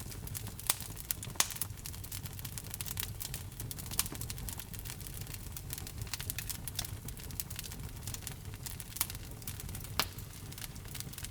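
Wood fire crackling in a fireplace: a steady low rumble of burning with constant small crackles and a few louder pops, the loudest about ten seconds in.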